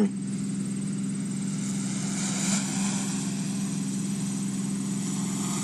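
Camera drone's propellers humming steadily as it hovers close by, its landing gear just lowered for landing.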